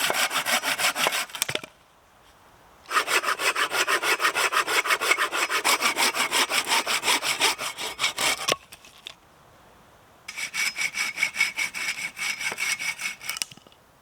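Hand saw cutting through wood in quick, even back-and-forth strokes, in three bouts: a short one at the start, a long one of about five seconds, and a third near the end, with pauses between.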